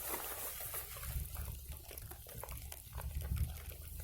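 Birch bark and thin kindling crackling with many short, irregular snaps as a small campfire catches, over the steady hiss of light rain and a low rumble.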